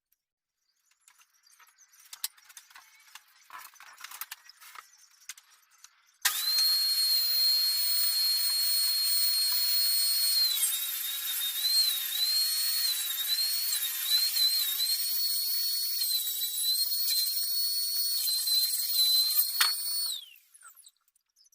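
A high-speed electric power tool starts suddenly about six seconds in and runs with a loud, steady, high-pitched whine. From about ten seconds in its pitch dips again and again as it bites into the work, and near the end it spins down and stops. Before it starts there are faint clinks and handling noises.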